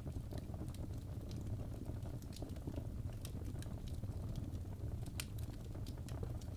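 Fireplace crackling: irregular sharp pops and snaps over a steady low rumble of the fire.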